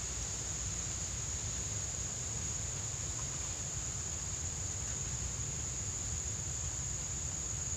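Steady, unbroken high-pitched insect chorus, cricket-like, over a low rumble.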